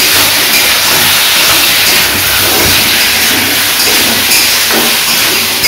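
Potato and green jackfruit pieces in spice masala sizzling steadily in hot oil in an aluminium kadai as they are stirred.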